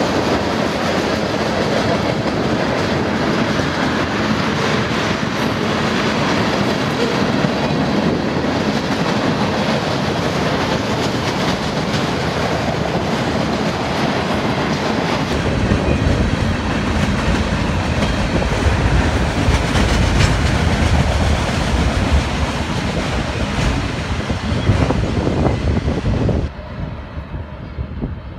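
Freight train cars rolling past on the rails, a steady loud noise that grows heavier in the low end about halfway through. Near the end it drops suddenly to a quieter, more distant train sound.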